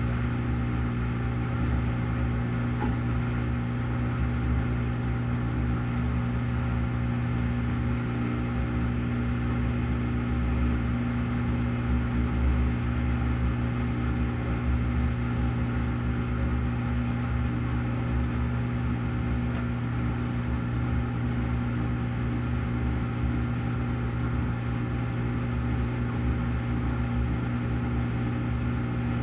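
Washing machine running, with a steady, even motor hum over a low rumble.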